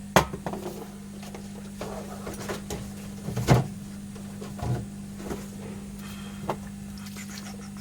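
A few short clicks and knocks of tools and objects being handled on a workbench, the loudest near the start and about three and a half seconds in, over a steady electrical hum.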